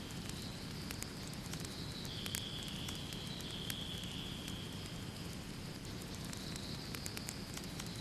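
Wood fire burning in a fireplace, with irregular sharp crackles and pops over a steady low rush. A high hiss fades in and out every few seconds.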